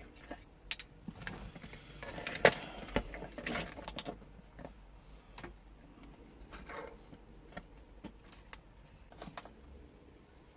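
Scattered light clicks and taps of small tools and parts being handled while soldering a circuit board, busiest a couple of seconds in.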